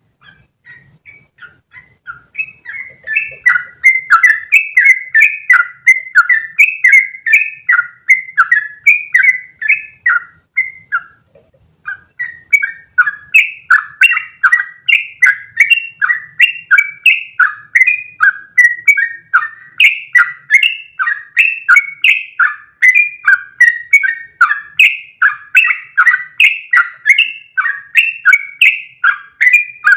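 Yellow-vented bulbul (trucukan) singing a long, rapid 'ropel' run of bubbly chirped notes, about three a second. The song builds up over the first couple of seconds, pauses briefly partway through, then carries on unbroken.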